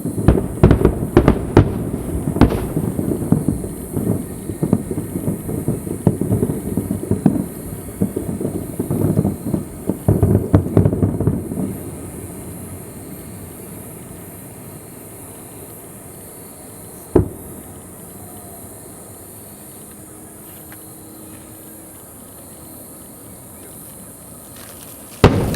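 Fireworks display heard from a few kilometres off: a dense run of bangs and crackles for about twelve seconds, then it quietens, with a single bang about two-thirds of the way in and another near the end.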